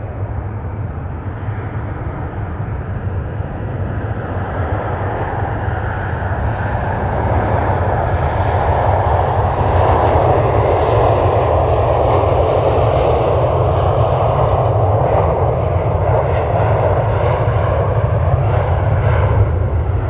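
Jet airliner's engines passing close, a loud rushing roar that builds over the first several seconds and then holds strong.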